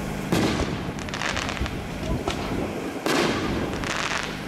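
Aerial firework shells bursting: sharp bangs about a third of a second in, at about one second and just after three seconds, each followed by a spell of crackling.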